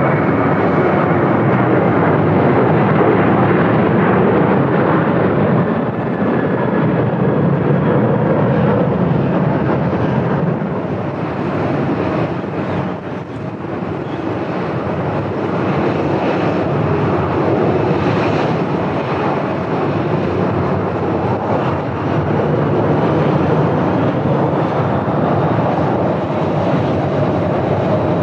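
Jet airliner engine noise: a Boeing 737-800's CFM56 turbofans on takeoff and climb-out. After a short dip about thirteen seconds in, an Airbus A320neo's engines are heard on its landing.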